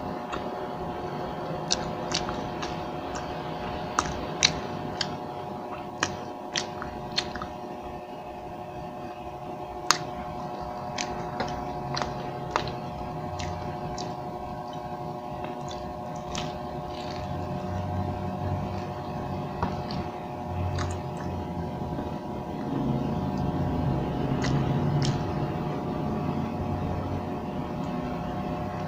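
Close-miked chewing and biting of fried street food, with wet mouth sounds and short, sharp crunchy clicks scattered irregularly throughout. A steady hum lies underneath.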